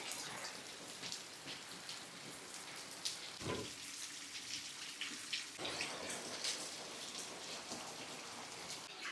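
Heavy summer rain falling, with many separate drop hits on surfaces. A brief low thud about three and a half seconds in.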